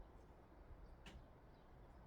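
Near silence, with a single brief, high chirp from a garden bird about a second in.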